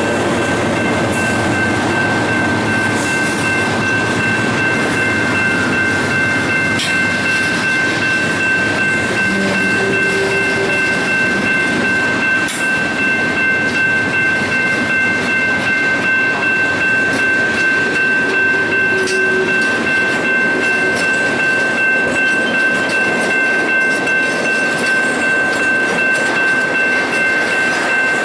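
Freight train rolling past, its cars giving a continuous rumble and clatter. A steady high-pitched squeal or whine holds throughout.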